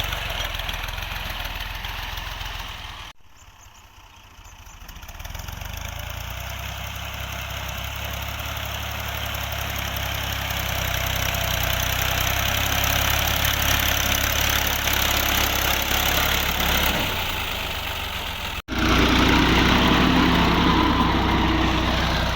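Fiat 480 tractor's diesel engine running steadily. The sound drops away sharply about three seconds in and builds back up, then breaks off abruptly near the end and returns louder.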